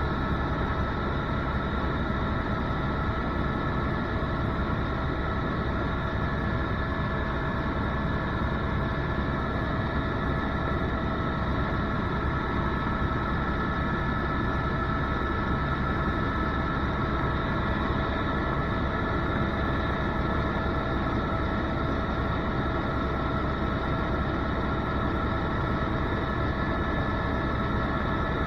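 Tour helicopter running steadily: a continuous low rumble with steady high tones over it.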